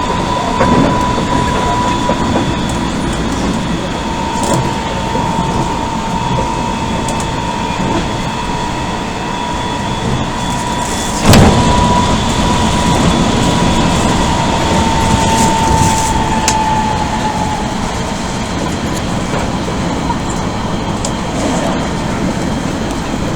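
Odakyu 1000 series electric train with Mitsubishi GTO-VVVF control, running at speed and heard from inside the car: steady rolling rumble with a thin steady whistle that fades away about 17 seconds in. There is one sharp, loud bang about 11 seconds in.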